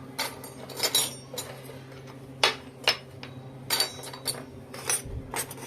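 Miniature toy kitchen utensils clinking and tapping against each other as they are handled: a string of sharp, separate clicks, about eight in all.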